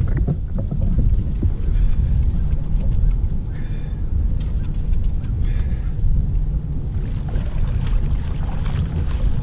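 Steady low rumble of a fishing boat trolling, with wind buffeting the microphone, and brief faint higher chirps around the middle.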